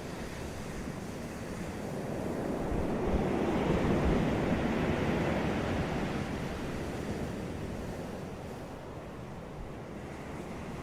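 Sea waves breaking on a beach: one wave swells to a peak about four seconds in and washes out, with low wind rumble throughout.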